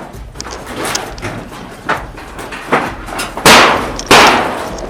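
A series of sharp bangs, irregularly spaced, with the two loudest about three and a half and four seconds in, each ringing off briefly.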